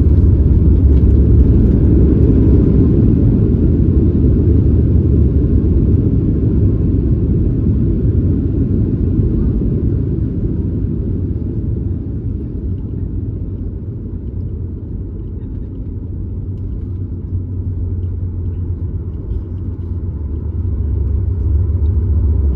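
Loud low rumble of a Boeing 737 MAX 8 heard inside the cabin from a seat behind the wing. It eases off gradually through the middle, then builds again near the end.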